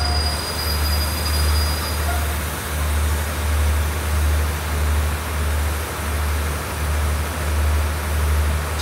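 Passenger coaches of a State Railway of Thailand rapid train rolling past on the adjacent track. The train is pulling in to stop at the junction. A heavy low rumble swells and fades in a steady rhythm, under a hiss of wheel and rail noise.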